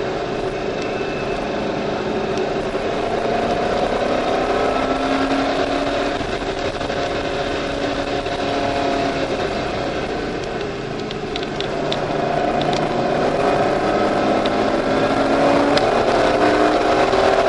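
C5 Corvette's V8 pulling hard, heard from inside the cabin: the engine pitch climbs, eases off briefly about ten seconds in, then climbs again, over steady road and wind noise. A few light clicks come near the middle.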